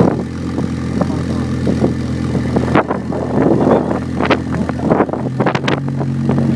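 BMW M6 engine, stroked and with ported heads, running through a fully custom exhaust at idle with a steady, deep note that changes for a couple of seconds in the middle, mixed with short sharp crackles.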